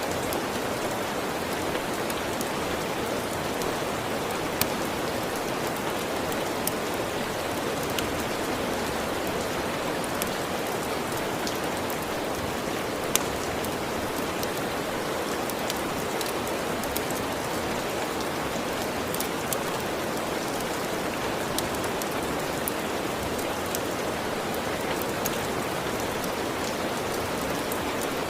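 Steady rain falling, with scattered sharp clicks over it; the loudest click comes about halfway through.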